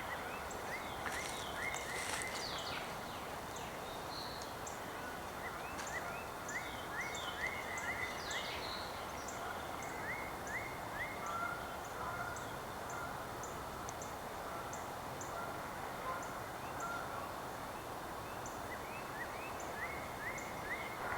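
Several wild birds calling in winter woodland: a run of short, high chips repeated about twice a second, mixed with short rising notes and a few quick sweeping calls, over a steady background hiss.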